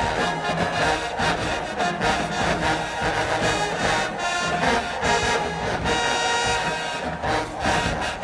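Marching band playing: a loud brass section (trumpets, trombones) over a steady drumline beat.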